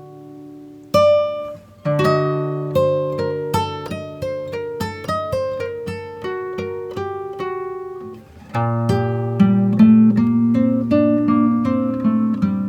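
Background music: acoustic guitar picking a melody of single notes over bass notes, becoming fuller and louder about two-thirds of the way through.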